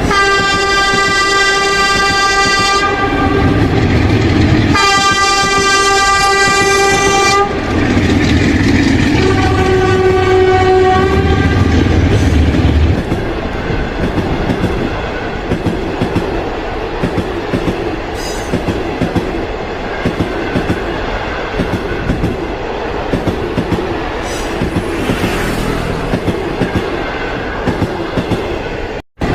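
A train horn sounds three long blasts on one steady pitch over the low rumble of the train. Then the train rolls past with a repeated clickety-clack of its wheels over the rail joints.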